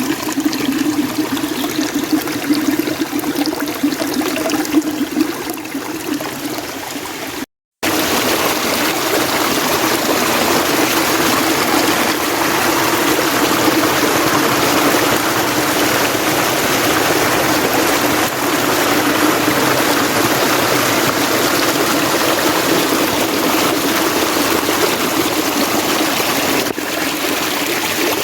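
Mountain stream running steadily, a continuous rush of water. About seven and a half seconds in it cuts out for a moment, then comes back slightly louder and brighter.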